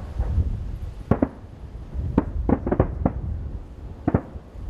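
Aerial firework shells bursting: a run of sharp bangs, one about a second in, a quick cluster of five between two and three seconds, and one more near the end, over a steady low rumble.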